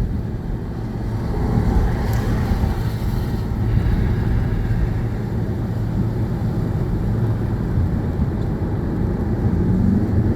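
Steady road and engine rumble of a car being driven, heard from inside the cabin, swelling slightly a couple of seconds in.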